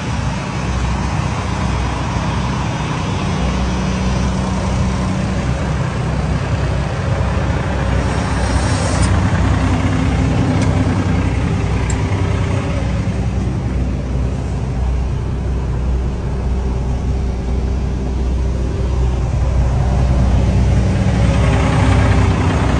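Cummins X15 diesel engine of a Peterbilt 379 truck running steadily with a deep, low drone, a few light clicks partway through.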